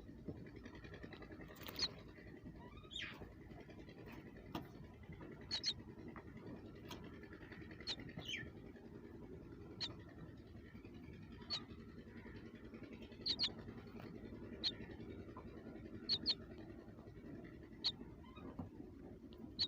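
Small birds giving short, high chirps, singly and in quick pairs, every second or two, over a faint steady hum.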